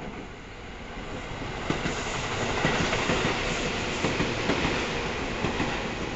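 Tobu 850 series electric train passing close by, its wheels clacking over rail joints as it rolls along. The sound builds over the first two seconds and eases off near the end as the last car goes by.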